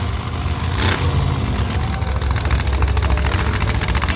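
Monster truck engines running loud with a deep, fast-pulsing rumble, and a short noisy burst about a second in.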